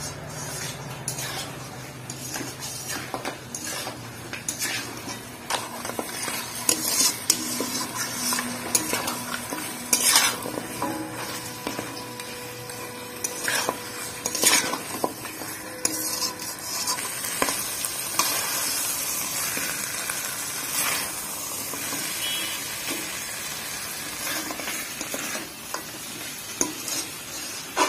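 Mutton leg pieces sizzling as they fry in masala in a metal kadai, with a steel spatula scraping and knocking against the pan in irregular strokes as they are stirred.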